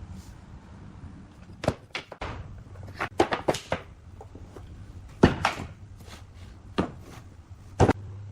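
Irregular sharp knocks and thunks, about nine in all, some in quick clusters, like wooden parts being knocked or set down during woodworking, over a steady low hum.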